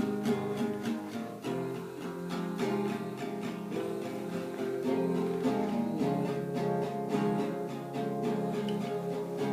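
Acoustic guitar music, plucked and strummed, with a steady rhythm.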